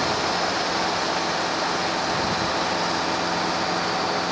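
Steady drone of a Robinson R22 helicopter in cruise flight, heard from inside the cabin: engine and rotor noise with a few faint steady hum tones running through it.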